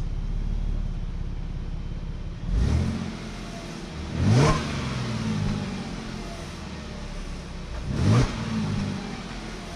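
2017 Audi Q7's supercharged 3.0T V6 idling, revved in three short throttle blips, the pitch rising and falling each time. It has just been restarted after a Seafoam piston soak and is burning off the cleaner.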